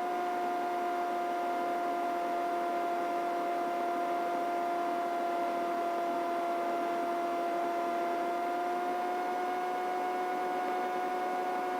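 Steady in-flight aircraft noise heard through the radio/intercom audio: an even hum with a steady pitched whine over a hiss. The whine rises very slightly in pitch about eight seconds in.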